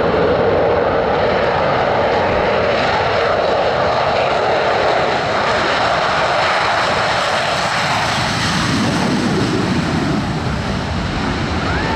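Blue Angels F/A-18 Super Hornet jets taking off and climbing away. Their afterburning twin turbofans make loud, steady jet engine noise.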